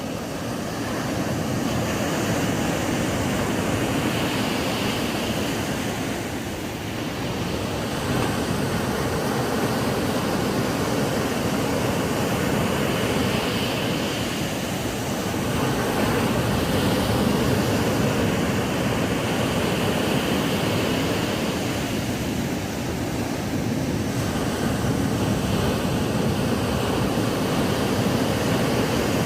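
Ocean waves breaking and washing up on a sandy beach, a continuous surf rush that swells and eases every several seconds.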